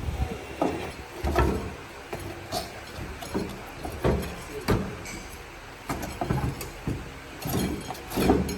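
Irregular knocks, clanks and scrapes of hand-tool work on metal, about ten strokes unevenly spaced, some with a short ring.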